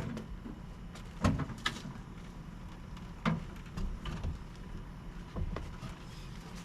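A handful of separate knocks and clunks, spread irregularly, as the shortened sunshade frame is handled and set in place.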